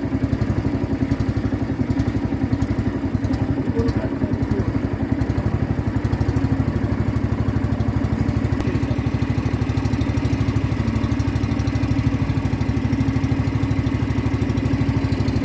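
Boat engine running steadily at constant speed, with an even, rapid throb.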